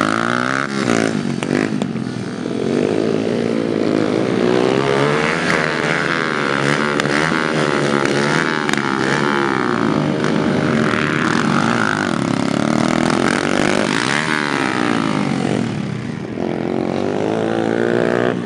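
Several dirt-track racing motorcycles at full throttle, their engines overlapping and repeatedly rising and falling in pitch as they accelerate, shift and pass.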